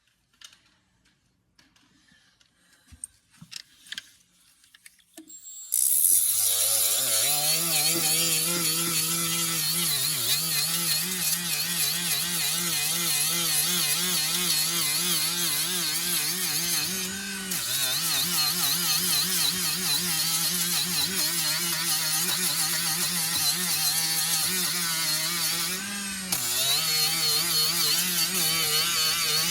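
A handheld electric power tool stripping paint off the engine block back to bare metal. A few light handling clicks come first, then the tool spins up about six seconds in and runs steadily under load with a wavering hum and a strong hiss. Its pitch rises briefly twice as the pressure eases.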